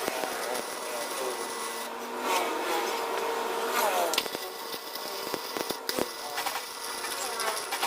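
Workshop tool noise: continuous scraping and rubbing with scattered sharp knocks and clicks.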